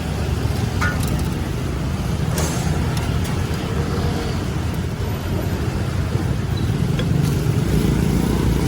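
Steady low rumble of street traffic, with a few faint light clicks and clatters.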